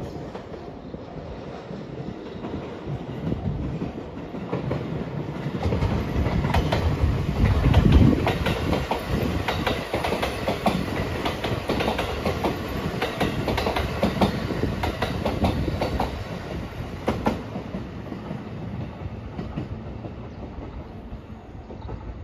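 JR Rapid Marine Liner electric train, 223-series cars, passing close by at speed. Its wheels clatter rhythmically over the rail joints. It grows louder over the first several seconds, peaks about eight seconds in, and fades after about seventeen seconds as it pulls away.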